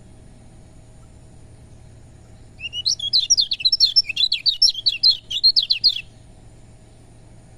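Kecial kuning, a white-eye, singing one rapid burst of high, quickly changing chirping notes lasting about three seconds, starting a little over two seconds in. A faint steady hum lies underneath.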